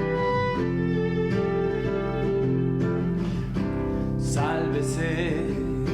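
Acoustic band music: guitar chords with a bowed string line, and a voice or melody coming in near the end.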